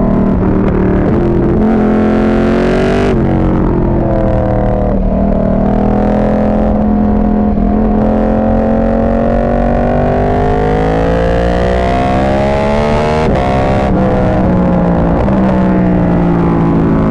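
Ducati 1299 Panigale's Superquadro L-twin running through an Austin Racing GP2 full exhaust system, revs climbing under acceleration and dropping sharply at gear changes about three seconds in and twice around thirteen seconds, then easing off near the end. It is loud, with the microphone close to the exhaust and overloading.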